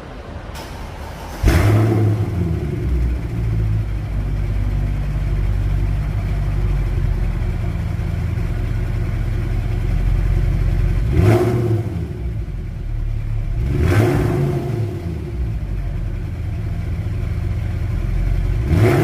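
Mercedes C63 AMG W204's 6.2-litre V8 cold start through the stock exhaust: it fires with a sudden flare about a second and a half in, then settles into a steady idle. Three short throttle blips follow, near the middle, a few seconds later and at the very end.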